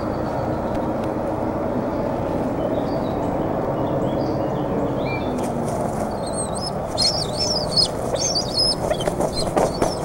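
Birds chirping in quick, wavering high calls, sparse at first and then busier and louder from about seven seconds in, over a steady low background rumble.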